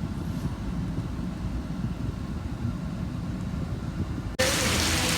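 A steady low rumble, then about four seconds in an abrupt cut to heavy rain falling on a surface, a loud even hiss.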